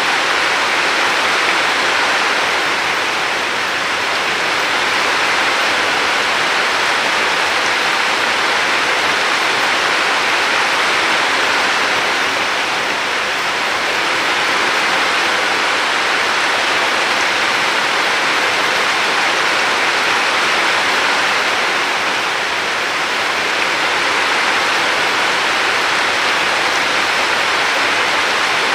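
River water flowing with a steady rush, swelling and easing gently about every ten seconds.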